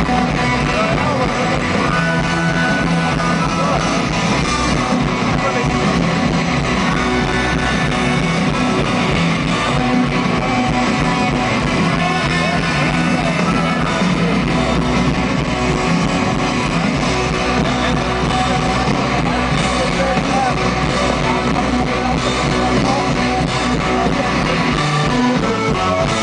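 Live rock band playing at a concert, electric guitar to the fore over bass and drums, at a steady, loud level.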